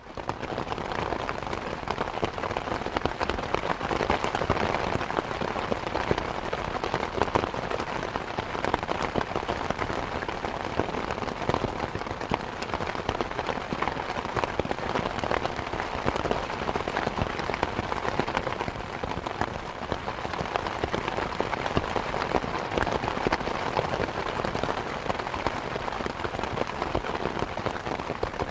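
Steady rain falling and pattering on surfaces, with many small drop crackles over an even hiss.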